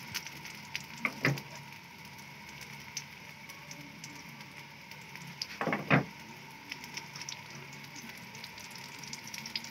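Shami kababs sizzling steadily in shallow oil on a tawa (flat griddle), with a few sharp clacks of metal tongs against the pan, the loudest about six seconds in.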